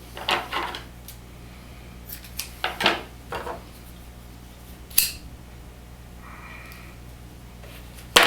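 Small plastic and metal parts of a cellular shade's cord lock clicking and rattling as they are handled while the cord is fed through. The clicks come in short clusters, with a sharp single click about five seconds in and a loud one at the end.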